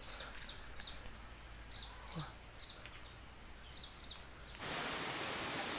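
Short, high chirps in quick pairs, each dropping slightly in pitch, repeating every half second or so over a steady high insect whine. About four and a half seconds in, the chirps stop and an even hiss takes over.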